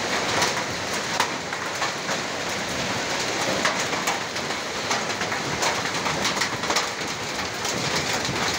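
Heavy rain falling steadily, a dense even hiss with many sharp individual drop hits close by.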